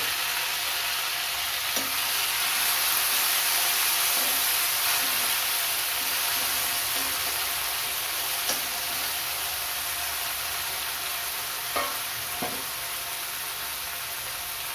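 Chopped tomatoes and onions frying in hot oil in a metal kadhai: a steady sizzling hiss, with a few light clinks of a metal slotted spoon against the pan as they are stirred.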